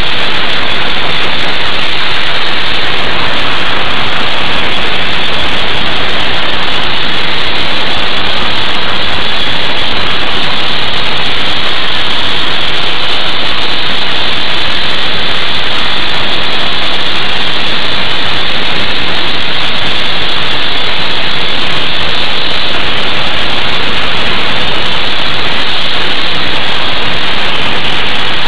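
Sandblasting nozzle blasting abrasive with compressed air onto a boat hull: a loud, steady hiss that doesn't let up.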